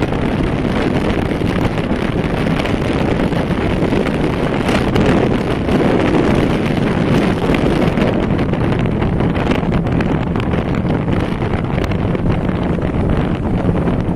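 Wind buffeting the microphone of a speedboat running at speed, over the steady drone of its twin Yamaha 200 hp two-stroke outboard motors.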